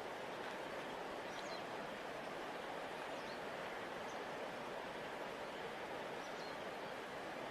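A large river flowing steadily, giving an even rushing hiss. Above it there are a few faint, short high chirps.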